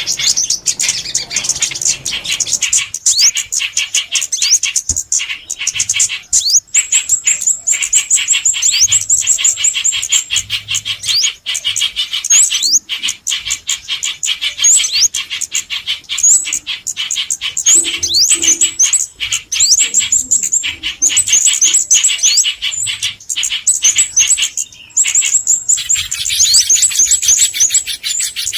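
Dense, continuous chorus of small songbirds chirping, with rapid high notes and short upward-sweeping whistles: a lure recording of bird calls meant to draw birds to glue traps.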